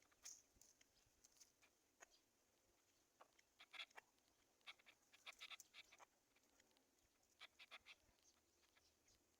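Near silence with faint, scattered short clicks and rustles, bunched in a few brief clusters.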